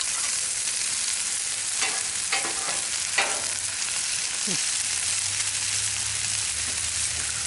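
Chicken and vegetables sizzling steadily on a Blackstone flat-top griddle, with a few brief spatula scrapes as the stir-fry is mixed around.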